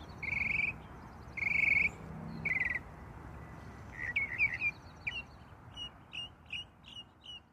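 Birdsong: a short trilled note repeated about once a second, then from about four seconds in a run of quick chirps that fades away near the end, over a steady low hiss.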